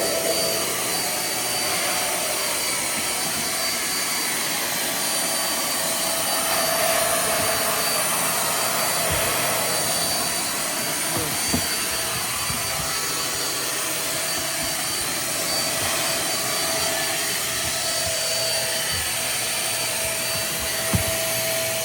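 Small corded stick vacuum, its handheld unit running steadily with a rushing noise and a high thin whine, with a couple of light knocks of the nozzle against surfaces. It is switched off at the very end.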